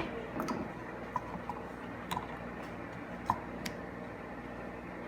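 A few scattered light clicks and ticks from two screwdrivers prying at the plastic housing of an air-ride manual switch, over a steady low hum.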